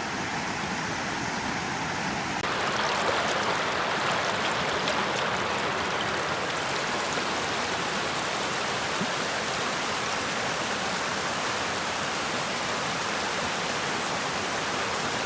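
Fast-flowing river rushing: a steady, even wash of water that gets louder and brighter about two seconds in.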